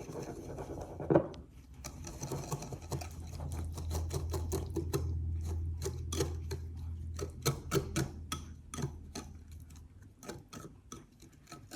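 A whisk beating lemon curd ingredients in a bowl: rapid, uneven clicking and tapping strokes against the bowl. A low steady hum sits underneath through the middle.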